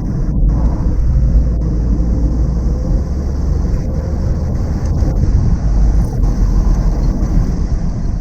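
Mazda NC Roadster (MX-5) on the move: steady engine and road noise under a heavy low wind rumble on the microphone.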